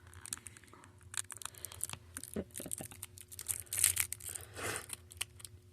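Plastic Warheads candy wrapper crinkling and tearing as a two-candy pack is opened, in irregular crackles with the loudest rustles near the end. A faint steady hum runs underneath.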